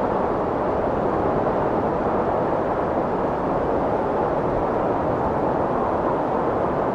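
Strong wind blowing steadily: an even, unbroken rushing noise with no gusts or swells, dull rather than hissy.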